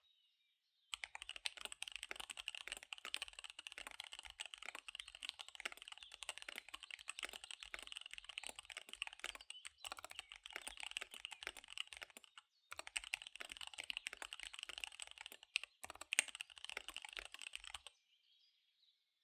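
Fast typing on a KBD75 V3 mechanical keyboard with SP-Star Dark Magic Girl tactile switches and DSA keycaps: a dense, rapid run of key clacks. It starts about a second in, breaks briefly about twelve seconds in, then resumes and stops about a second before the end.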